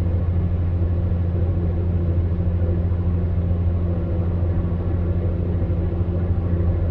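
Electric fan heater running steadily: a constant low hum under an even rush of air from its fan.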